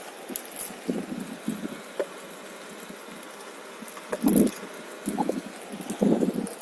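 Wind noise on the microphone of a Onewheel electric board riding over a rough trail, with irregular rattles and thumps from the bumps. The loudest bumps come about four seconds in and again near the end.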